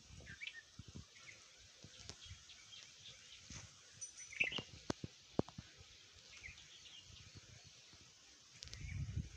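Birds chirping, short scattered calls over a faint outdoor hiss. A few sharp clicks about halfway are the loudest sounds, and a low rumble comes in near the end.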